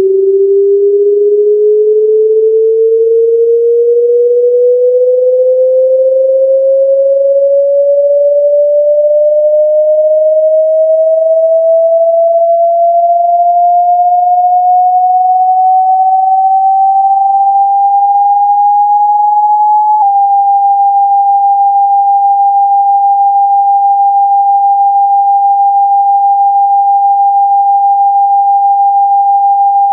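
Generated pure sine tone sweeping smoothly upward in pitch for about twenty seconds, then after a brief click holding one steady higher tone: a speaker-cleaning tone played to shake water and dust out of a phone speaker.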